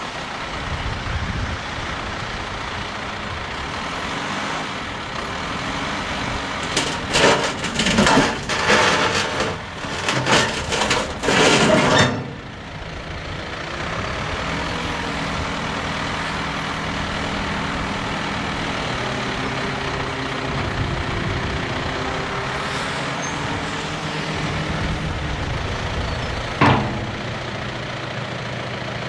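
The 2015 John Deere 6110R's four-cylinder turbo diesel engine running steadily. Between about 7 and 12 seconds in there are several loud rushing surges, and near the end there is one sharp click.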